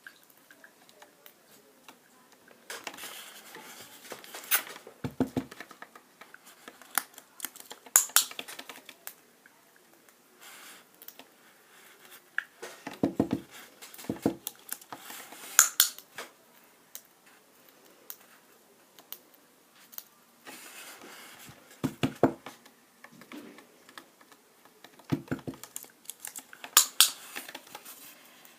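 Irregular clusters of light clicks and taps from small hard objects, with a few soft low thumps among them.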